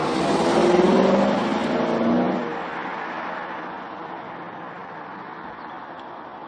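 Lexus RC F's 5.0-litre V8 with a Guerrilla aftermarket exhaust, pulling hard under acceleration for about two seconds, then fading steadily as the car moves off.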